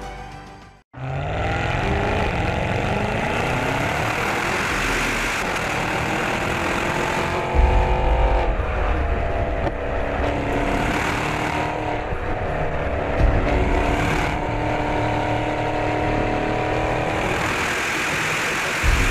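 Maserati Ghibli Trofeo's twin-turbo V8 accelerating hard. The engine note climbs steadily, drops back and climbs again as it changes gear, with heavier low bursts about seven and thirteen seconds in.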